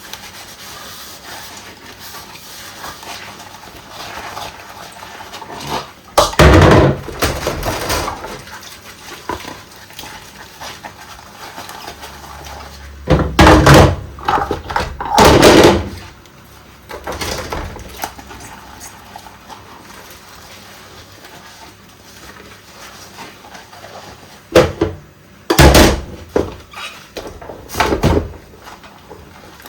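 Dishes washed by hand at a sink: a low steady rubbing and scrubbing, broken by several loud clatters and knocks of crockery about a quarter, half and most of the way through.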